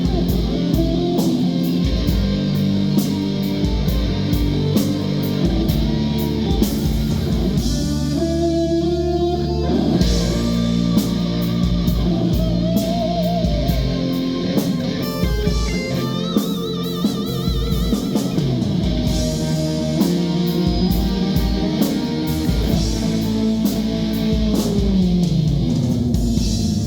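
Live rock band playing an instrumental passage: electric guitar leading with long held notes, bent and wavering pitches, over bass and a drum kit.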